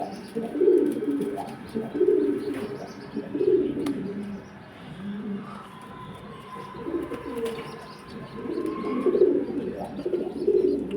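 Racing pigeons cooing: low coos repeating again and again.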